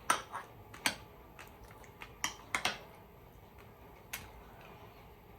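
A spoon clicking against a dish about six times, in sharp, separate taps.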